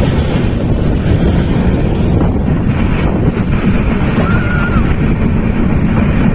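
Passenger train running, a steady rumble of the coach and wheels on the rails heard from inside the carriage. A short, faint high squeal rises and falls about four seconds in.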